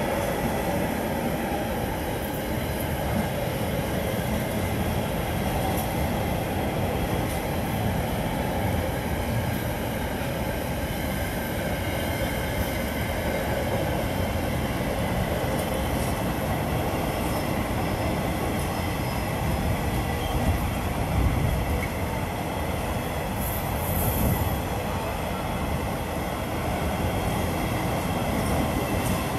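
A train running through the station: steady wheel-on-rail and running noise, with a brief high squeal about three-quarters of the way through.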